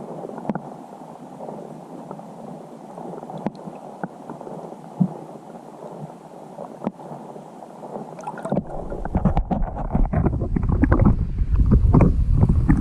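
Steady wind noise on an open boat, with a few light knocks. About two-thirds of the way in, strong gusts start buffeting the microphone and the sound turns loud and low.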